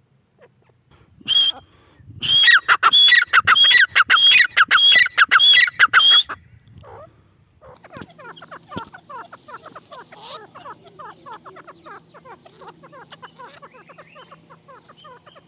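Grey francolin calling: a single note, then a loud run of repeated shrill calls, about two a second, for some four seconds. After a pause, a faint, rapid chatter of many short falling bird notes runs on to the end over a low steady hum.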